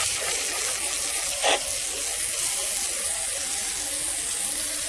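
A steady, even hiss, brightest in the high range, with one short sound about one and a half seconds in.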